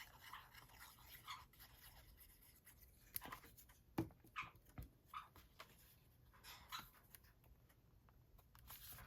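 Near silence with a few faint taps and rustles of paper being handled.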